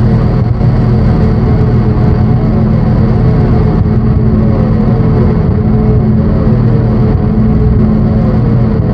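Loud, dense drone-synthesizer noise music: thick sustained low tones with a rough, grinding texture, and a short downward-sliding tone in the middle register recurring about once a second.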